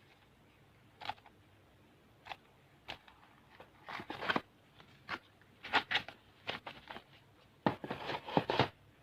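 Plastic candy wrappers crinkling as packets are handled, in short irregular bursts that bunch together toward the middle and near the end.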